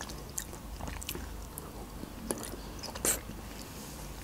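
Close-miked mouth sounds of a person chewing juicy peeled grapefruit segments: soft, wet clicks and smacks, with one louder smack about three seconds in.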